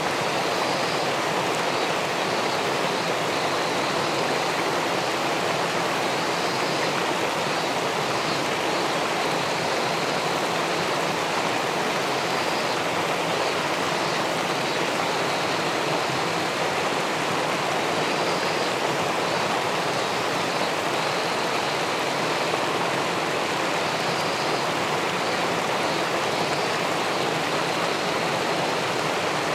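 River water rushing and splashing steadily below a weir, a continuous even noise with faint high flickers.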